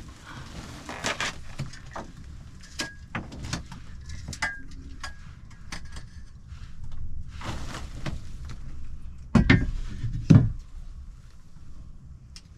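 Scattered light clicks and knocks, with two louder thumps about nine and ten seconds in.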